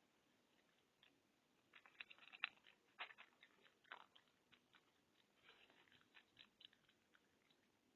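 A fox chewing and crunching food: quiet, irregular crisp crunches and clicks, sparse at first and coming in quick clusters from about two seconds in.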